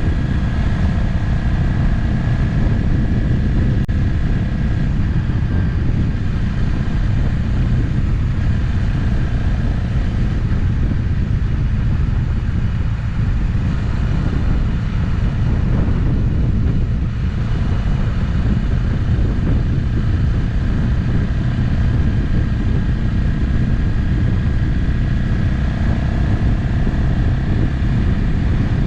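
Motorcycle engine running at a steady cruise, heard from the rider's camera together with wind and road noise.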